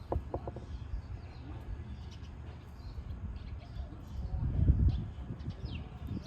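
Birds chirping faintly over a low rumble that swells about four seconds in.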